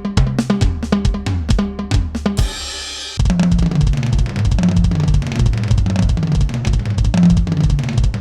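KAT Percussion KT4 electronic drum kit sounds played from its pads: a fast run of pitched drum hits, a cymbal crash ringing out about two and a half seconds in, then a dense groove of kick, snare and cymbals starting suddenly about three seconds in.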